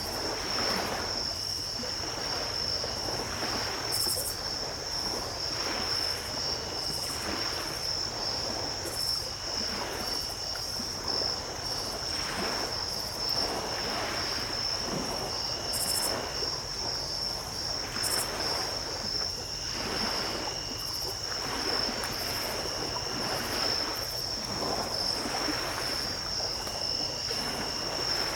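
Small waves washing onto the shore in soft swells every couple of seconds. Under them runs a steady high-pitched trill of night insects, with a second, lower trill starting and stopping every few seconds.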